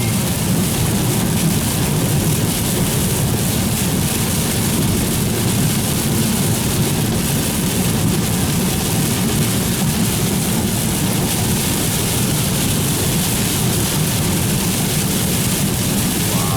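Steady noise of a vehicle driving in heavy rain: tyres hissing on the wet road with a low drone, and rain on the vehicle.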